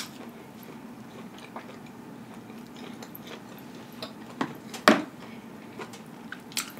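A person chewing pieces of rotisserie chicken with their mouth closed, with a few short, sharp mouth clicks. The loudest click comes about five seconds in.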